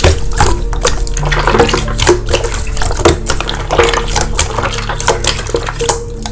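Slime being squeezed and pressed by hand, making a run of wet, sticky clicks and pops, over background music with long held notes.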